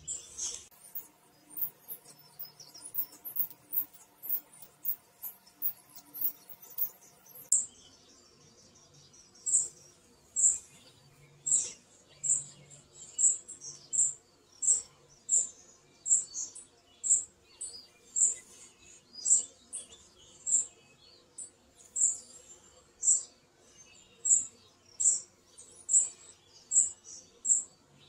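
A bird chirping one short high note over and over, at first sparse with faint fast high ticking, then from about eight seconds in regular and louder, roughly once or twice a second.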